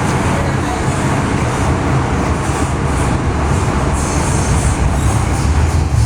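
MTR M-train electric multiple unit running on the track: a steady rumble of motors and wheels on rail, with a higher hiss joining from about four seconds in.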